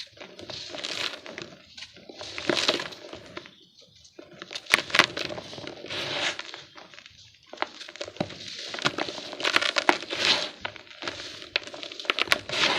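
Dry yellow dirt lumps crumbled and crushed by hand: gritty crunching with crackles, in about five bouts separated by short pauses.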